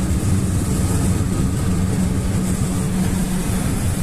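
Steady engine drone and road noise heard inside the cab of a GAZelle van driving on the highway.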